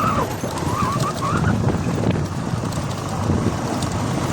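Vehicle riding a rough hill road: a steady low rumble of engine, wind and road noise with scattered rattling clicks, and short wavering squeals in the first second and a half.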